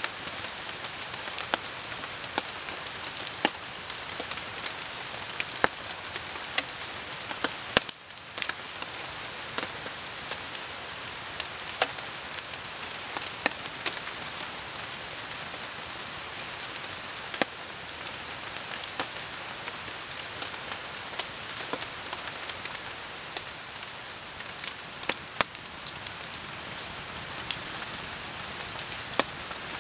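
Steady rain falling on the forest and a tarp, with a campfire crackling: scattered sharp pops over the even hiss of rain and a nearby river.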